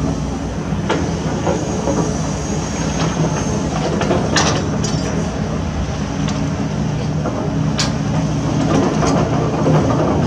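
Heavy construction machinery at work: a diesel engine running steadily under load, with a few sharp metal clanks, three of them standing out.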